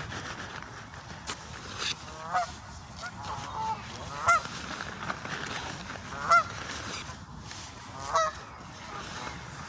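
Goose honking: four loud honks about two seconds apart, with a few fainter calls between them.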